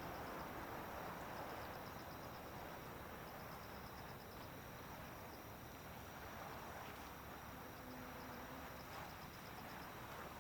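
Insects chirping in rows of short, high-pitched pulses over a faint, slowly fading rumble of distant jet noise.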